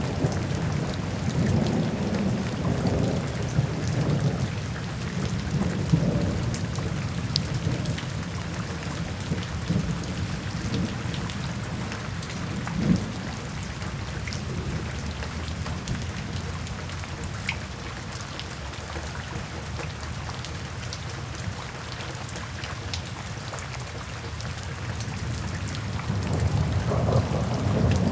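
Steady rain drumming on a tin roof, with scattered drops ticking and low thunder rumbling. The rumble is strongest at the start, eases off in the middle and swells again near the end.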